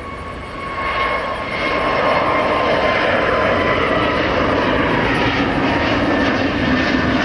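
Jet airliner engines running loud, swelling about a second in and then holding steady, with a high whine over the roar.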